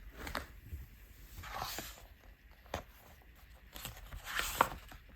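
Soft paper rustling and scattered light clicks from a picture book's pages being handled and turned. There are two brief rustles, about a second and a half in and again near the end.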